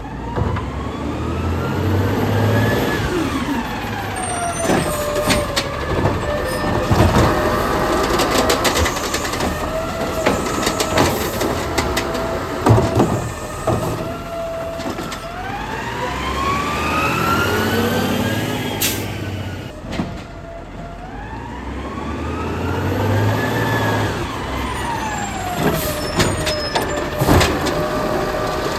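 Garbage truck engine revving up and back down three times as it works the hydraulics, with clanks and bangs of metal and plastic as a cart is lifted and dumped.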